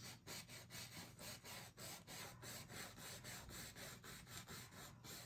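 Fan brush brushing white paint onto a canvas: faint, rhythmic rubbing strokes about three a second.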